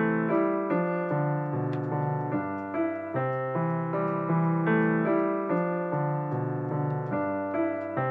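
Background piano music: a steady run of notes and chords, changing about three times a second.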